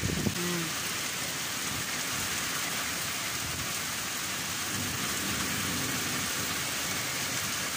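Torrential thunderstorm rain pouring down in a steady hiss.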